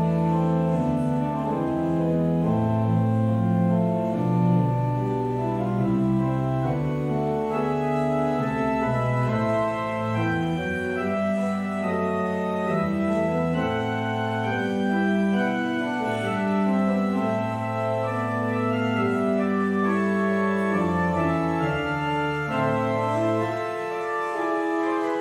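Organ music: sustained chords held a second or two each, moving from chord to chord at a slow, steady pace.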